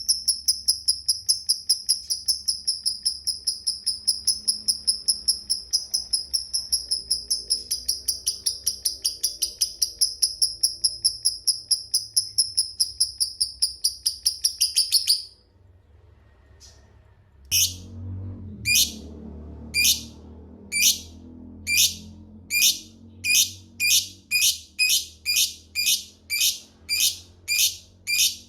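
Lovebird giving its long chattering trill, a fast, even run of shrill notes, for about fifteen seconds. It stops abruptly, and after a short pause the bird starts single sharp ticking calls, about one a second at first, coming faster toward the end.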